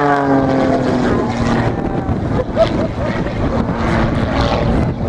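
Propeller aircraft engine passing by, its pitch falling at the start and then settling into an uneven drone.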